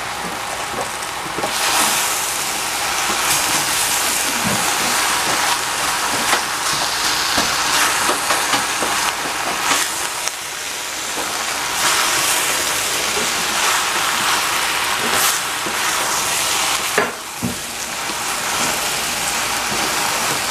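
Eggplant pieces and minced pork sizzling in a stainless steel saucepan while a wooden spatula stirs them, with a few knocks of the spatula against the pan.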